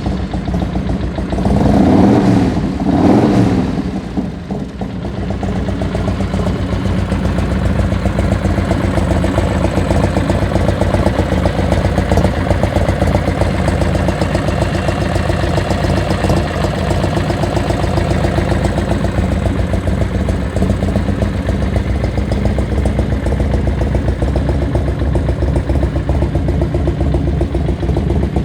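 1998 Harley-Davidson Electra Glide Classic's 113-cubic-inch Ultima V-twin engine, freshly started, revved twice about two and three seconds in, then idling steadily.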